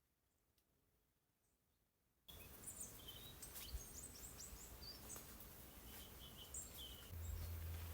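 Near silence, then after about two seconds an abrupt change to outdoor ambience with birds chirping in short quick calls. A low steady hum starts near the end.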